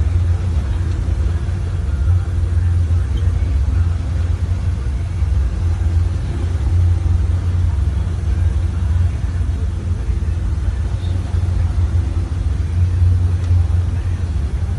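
Small motorboat's inboard engine running steadily underway, a loud, even low rumble.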